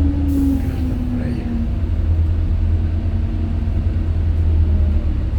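A LiAZ 5292.67 city bus under way, heard from on board: a steady low rumble from its Weichai natural-gas engine and drivetrain, with a whining tone that falls in pitch over the first second or so. There is a brief hiss near the start.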